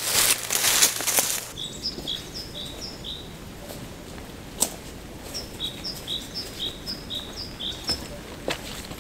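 Loud rustling for about the first second and a half, then a small songbird singing two runs of quick, repeated two-note phrases, with a few sharp clicks between them.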